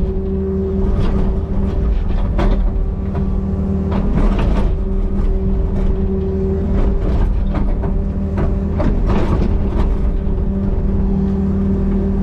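Excavator's diesel engine running steadily, with a series of short knocks at irregular intervals.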